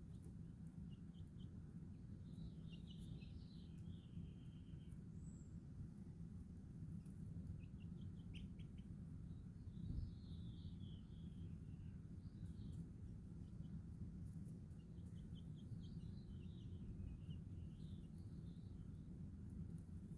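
Small birds chirping in short, scattered, warbling phrases, over a steady low background rumble, with one soft thump about halfway through.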